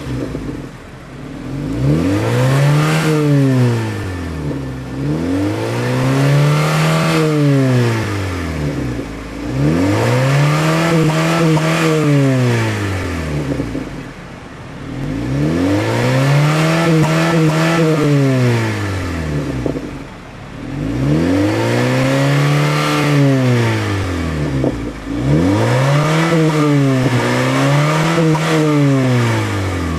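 Honda Fit four-cylinder engine revved up and down repeatedly, about every four seconds, through a custom rear muffler with 2-inch piping and a 3-inch tip; each rev rises smoothly in pitch and falls back.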